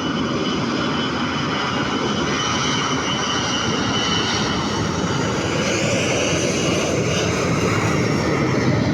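Airbus A321-211's CFM56 jet engines at takeoff power: a loud, steady engine noise with a faint high whine.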